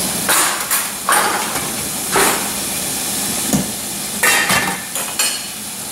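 A few sharp clanks and knocks of metal kitchenware, a pot lid and a utensil against a steamer pot, as steamed carrots are checked. A steady hiss of steam and boiling water runs underneath.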